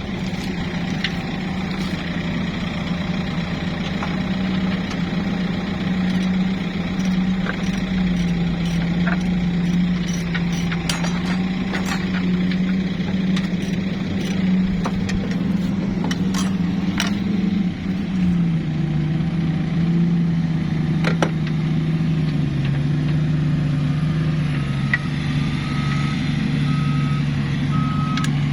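A vehicle engine runs with a steady low drone, and its pitch drops about two-thirds of the way through. Scattered clicks and knocks sound over it, and near the end a reversing alarm starts beeping at an even pace.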